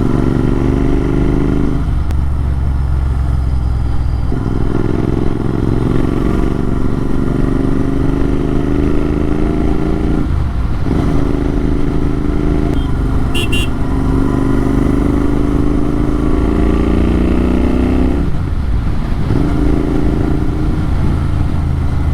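Motorcycle exhaust running open through an AEW TE102 aftermarket silencer with its dB killer baffle removed, the engine note climbing slowly under acceleration. The note breaks off and drops briefly three times, about 2, 10 and 18 seconds in, before rising again. A brief high chirp about 13 seconds in.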